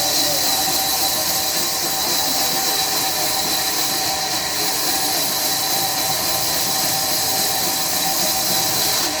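Sawmill machinery running steadily: an even, loud hiss with a steady high whine through it and no break.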